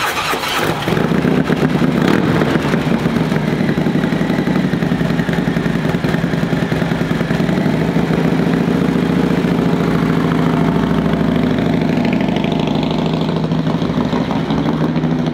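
Harley-Davidson Road Glide's V-twin engine running at a steady idle.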